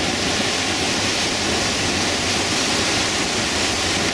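Class 5 whitewater rushing and crashing through a rapid: a steady, loud roar of churning water.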